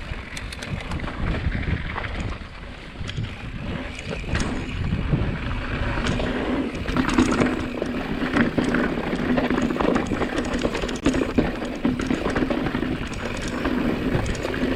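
Mountain bike riding down a dirt trail: wind buffeting the helmet or chest camera's microphone over the rumble and rattle of tyres on dirt, with a steady hum joining in about six seconds in.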